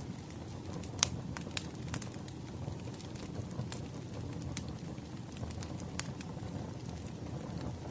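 Crackling wood fire: a steady low rumble of burning with sharp, irregular pops and snaps, the loudest about a second in.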